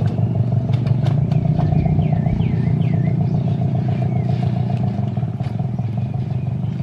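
Small diesel engine of a 7¼-inch gauge miniature railway locomotive running steadily, with light clatter on top.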